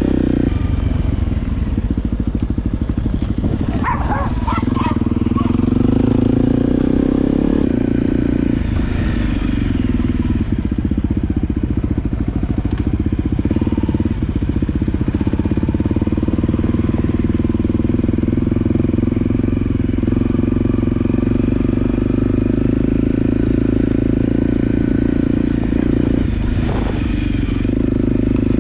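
Motorcycle engine running steadily under way, its pitch rising and falling as the revs change.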